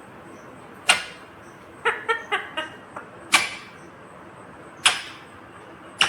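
Ringneck parrot giving short, sharp squawks, one every second or so, with a quick run of three or four short chirps about two seconds in.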